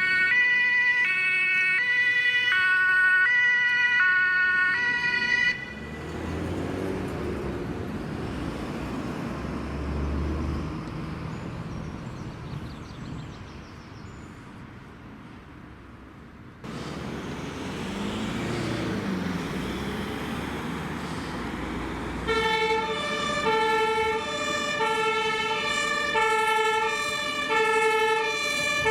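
German fire-service vehicles' two-tone sirens (Martinshorn) switching between a high and a low note. The first siren stops about five seconds in, leaving the engine and tyre noise of heavy vehicles pulling away. A second two-tone siren with a lower pitch comes in near the end.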